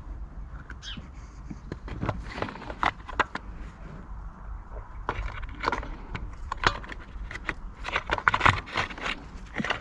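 Plastic parts of a leaf blower's pull-starter housing being handled and fitted back together: irregular light clicks, taps and scrapes, busiest about two seconds in and again near the end.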